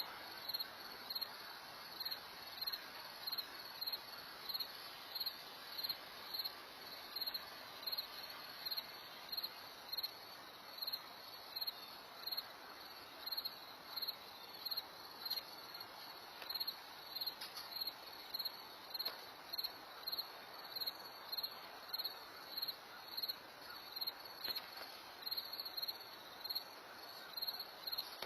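Faint, evenly repeating high-pitched chirps, a little more than once a second, over a low steady hiss.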